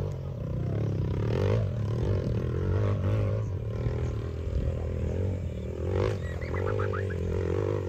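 Motorcycle engine running with its pitch rising and falling unevenly, as a trail bike does on a climb. A few short high bird chirps come in about six and a half seconds in.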